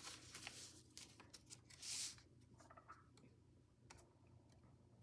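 Faint handling of a sheet of folding paper: scattered light clicks and creases, with one short soft rustle about two seconds in.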